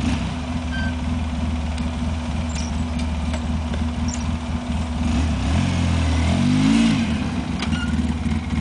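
Polaris 800 ATV engine running steadily while plowing snow, revving up and back down about six seconds in.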